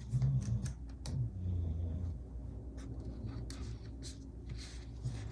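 Paper stickers being handled on a planner page: light scratching and rustling with small scattered taps as a sticker is peeled up and repositioned.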